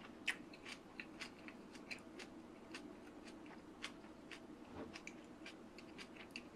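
Faint, close-up chewing: a person eating a mouthful of rice, with soft irregular wet mouth clicks a few times a second over a low room hum.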